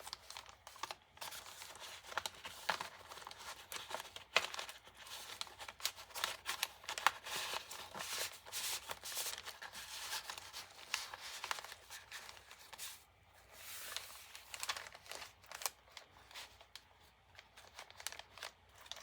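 Paper rustling and crinkling in irregular bursts, with small clicks, as the paper pages and tucked-in ephemera of a handmade journal are handled and turned.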